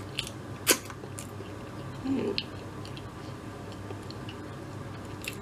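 A person chewing a mouthful of McDonald's spicy crispy chicken sandwich, with a few sharp wet mouth clicks and a brief murmur about two seconds in.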